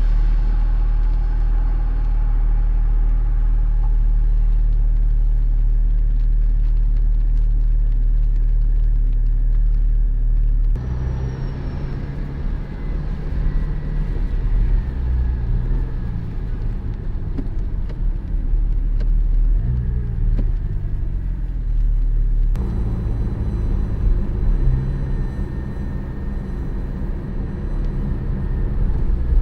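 Porsche 718 Spyder's flat-six engine running while driving, with road noise. A steady low drone for about the first ten seconds, then the engine note changes and varies, rising briefly around twenty seconds in.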